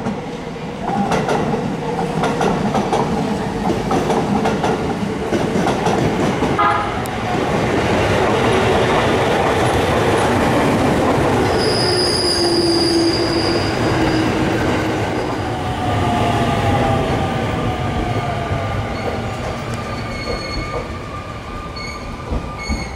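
Electric commuter train running along the station platform: a continuous rumble with wheels clacking over the rails, loudest midway. A high steady squeal comes about twelve seconds in, followed by a falling whine.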